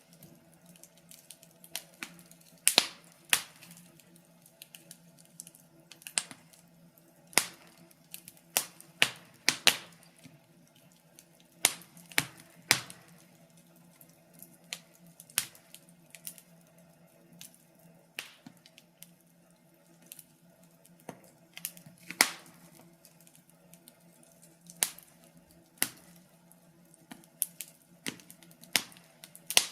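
Wood fire crackling: irregular sharp pops and snaps, several clusters of louder cracks, over a faint low hum.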